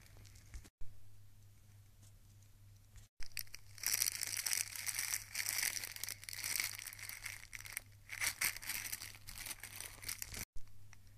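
Packaging crinkling and rustling as it is handled, in dense irregular bursts starting about three seconds in and stopping abruptly near the end.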